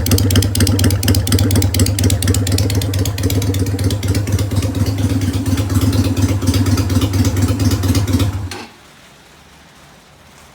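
Yamaha DragStar 250's air-cooled V-twin running through slash-cut straight pipes with no baffles, a loud steady run of exhaust pulses. It stops suddenly about eight and a half seconds in, leaving only a faint background hiss.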